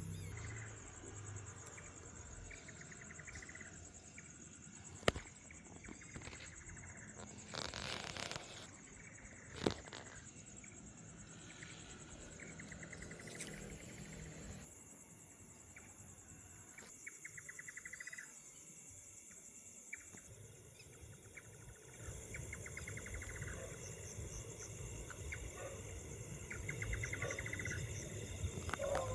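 Night insects: a steady high-pitched trill with crickets chirping over it in short, rapid pulse trains. Two sharp clicks stand out, about 5 seconds and nearly 10 seconds in.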